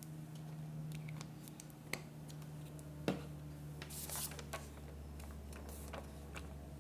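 Scrapbooking paper and craft supplies being handled on a table: scattered light taps and clicks with a short paper rustle near the middle, over a low steady hum.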